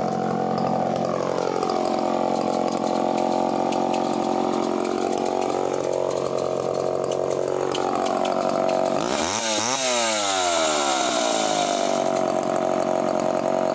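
Sachs Dolmar 118 Super 45cc two-stroke chainsaw running at full throttle through a cut in larch, its engine note wavering as it works. About nine seconds in, the pitch sweeps up sharply and then settles back.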